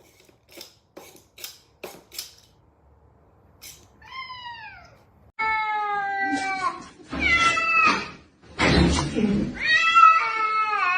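Cat meowing: a short meow falling in pitch about four seconds in, then a run of longer, louder meows. A few faint clicks come before the meowing.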